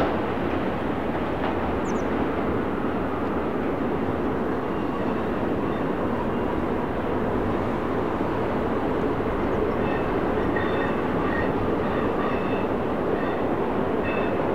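BNSF intermodal freight train rolling past with a steady rumble and clatter of wheels on rail. From about two-thirds of the way in, faint short wheel squeals come and go above it.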